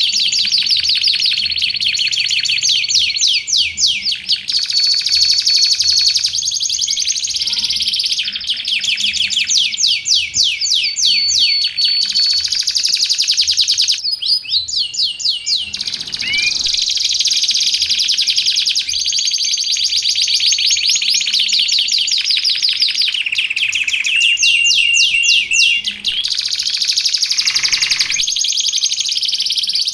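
Domestic canary singing a continuous song of fast trills of rapidly repeated notes, broken by held steady whistles, one of them lower in pitch a little before the end.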